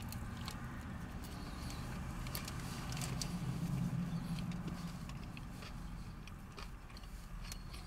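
A person chewing a mouthful of sub sandwich, with soft wet mouth clicks and smacks. Underneath is a low hum that grows louder about three seconds in, then fades.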